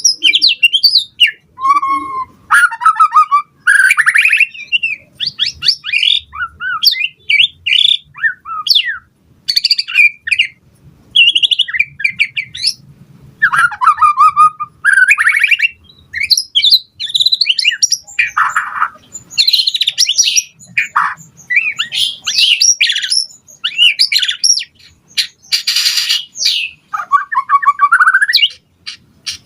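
White-rumped shama singing a loud, rapid, varied song: whistled phrases, quick trills and chattering notes one after another with short gaps, with a harsh scratchy call near the end.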